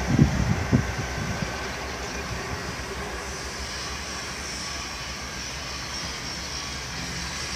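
A train running through a railway station: low thuds in the first second, then a steady even noise.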